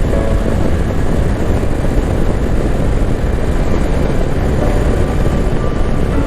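Riding noise from a 2021 Can-Am Spyder F3 Limited three-wheeler at road speed: its engine running steadily under a rushing wind noise with a heavy low rumble on the microphone.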